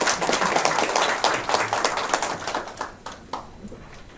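A roomful of people clapping, a short round of applause that thins out and stops about three seconds in.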